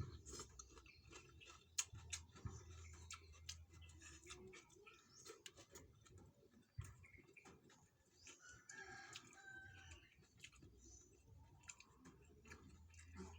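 A rooster crowing once in the background about two-thirds of the way through, over faint scattered clicks and taps and a low hum.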